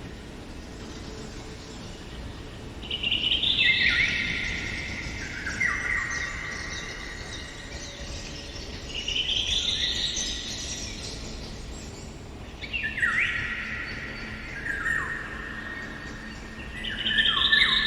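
Songbirds singing in woodland: four quick song phrases a few seconds apart, each a rapid run of notes stepping down in pitch, over a steady faint background hiss.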